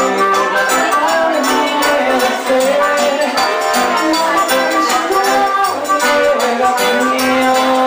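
Live forró band playing: accordion, guitar, zabumba drum and hand percussion, with a steady beat under held melodic notes.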